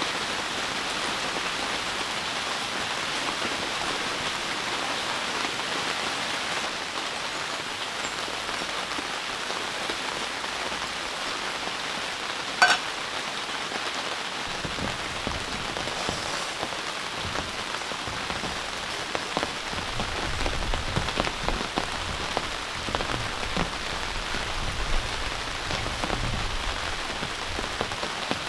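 Heavy rain falling steadily in a dense hiss. One sharp tap stands out about midway, and in the second half heavier drops land with scattered low thuds.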